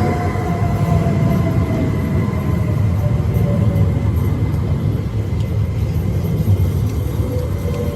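A train running past a station platform: a loud, steady low rumble with thin whining tones that slowly fall in pitch.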